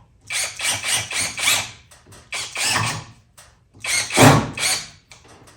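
A run of short mechanical rattling, ratcheting bursts, several in a row, the loudest about four seconds in.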